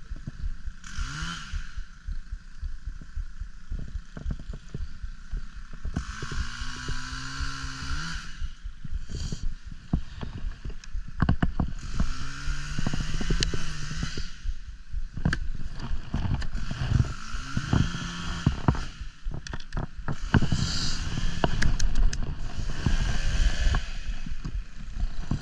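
Two-stroke chainsaw revving in repeated bursts, its pitch rising as the throttle opens and holding while it cuts, mixed with many sharp knocks and clatter.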